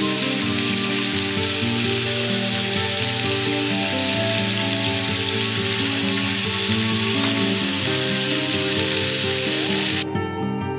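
Shrimp sizzling as they fry in a hot grill pan, a dense steady hiss that cuts off suddenly near the end. Background music plays underneath.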